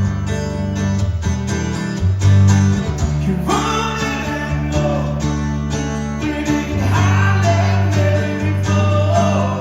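Live acoustic country-pop song: acoustic guitars playing sustained chords over a low bass line, with a melody line sliding in pitch above it a few seconds in and again near the end.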